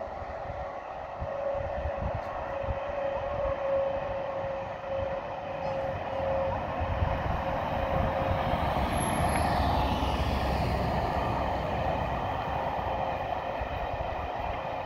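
ONCF passenger train hauled by an E 1400-class electric locomotive passing at a distance: a steady rumble of wheels on rail that swells to its loudest about halfway through and then eases off slightly.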